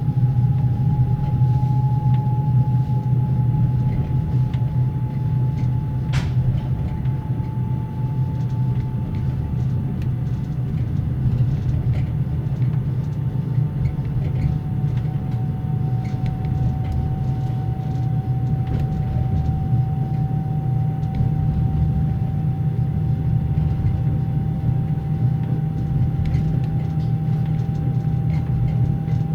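Passenger carriage's axle-driven generator whining steadily over the low rumble of the car running at moderate speed, heard inside a closed compartment. The whine sags slightly in pitch, and a single sharp click sounds about six seconds in.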